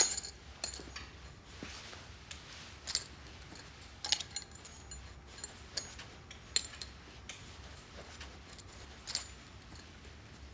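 Irregular light clicks and taps, about a dozen, over a faint low hum. The first, right at the start, is the loudest.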